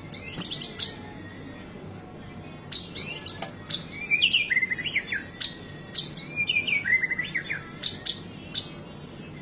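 White-rumped shama (murai batu) singing a varied song full of imitated phrases: runs of quick downward-sliding whistled notes broken by sharp clicking cracks, in bursts with short pauses between them.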